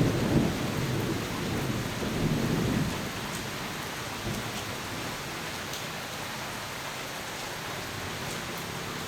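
Thunder rumbling over steady rain, dying away about three seconds in and leaving the even hiss of rainfall.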